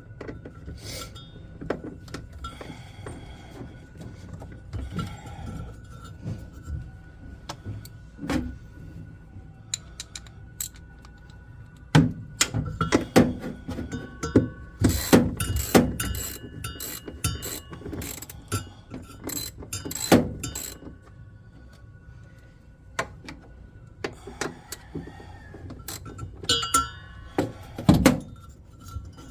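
Hand tools and metal parts clicking, knocking and clinking while a washing machine is being taken apart, the clatter busiest in the middle stretch, with a faint steady hum underneath.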